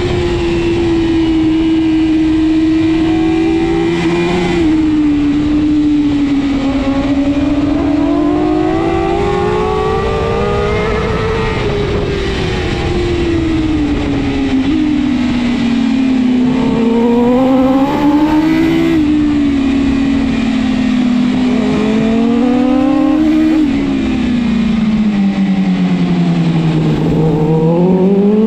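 BMW S1000RR superbike's inline-four engine at racing speed, revving up and down with the throttle through a sequence of corners, its pitch breaking sharply a few times as gears change. Near the end the revs sink to their lowest, then climb steeply as it drives hard out of a slow corner.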